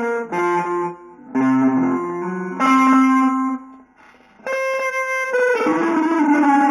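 Solo instrumental music: single held notes rich in overtones, one after another, with brief breaks about a second in and about four seconds in.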